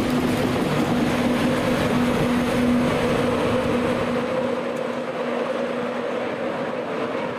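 A train running through the station: steady wheel and running noise with a held hum, easing off over the last few seconds as the hum drops away.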